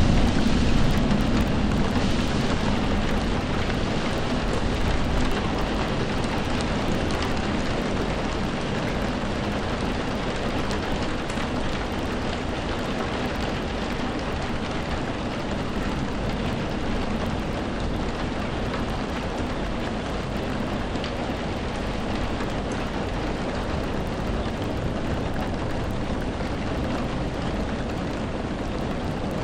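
Steady rainfall, an even hiss of drops. A low rumble over the first few seconds eases off.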